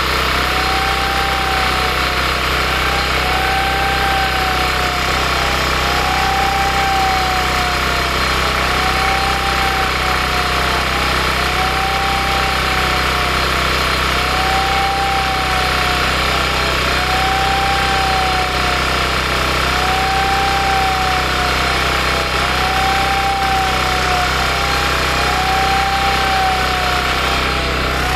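A loud, steady machine running, with a squeal that rises and falls about every two seconds.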